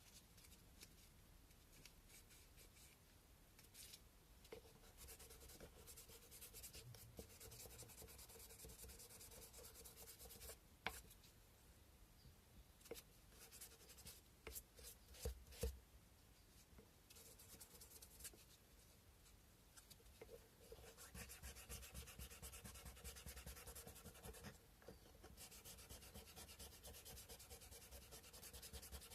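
Sandpaper being rubbed by hand over a carved cow-bone fish hook: faint, quick back-and-forth scratchy strokes that come in stretches, with a few sharp knocks in the middle.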